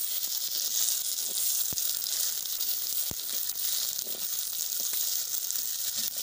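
Sliced tomatoes, onions and green chillies sizzling steadily in a clay pot as a metal spatula stirs them, with a couple of sharp taps of the spatula against the pot.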